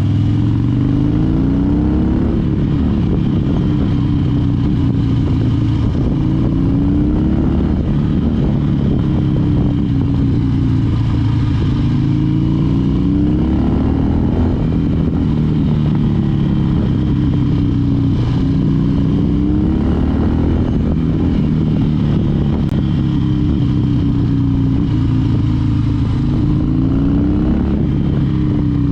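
Harley-Davidson Dyna Wide Glide's V-twin engine under way, its pitch climbing and dropping again and again as the rider accelerates and rolls off.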